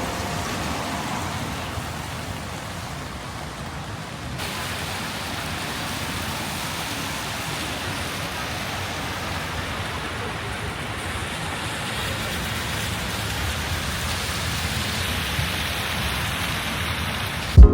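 Heavy rain falling, a steady even hiss, with a slight change in its tone about four seconds in.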